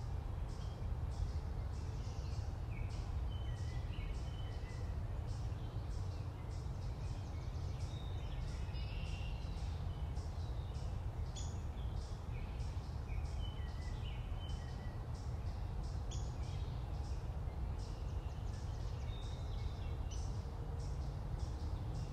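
Short bird chirps over a steady low rumble, with a faint high ticking that repeats about twice a second.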